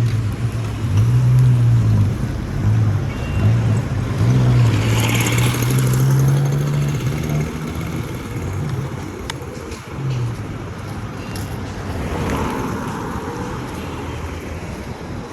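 A motor vehicle engine running close by, its low drone rising and falling in pitch for about ten seconds and then dropping away, over steady street traffic noise.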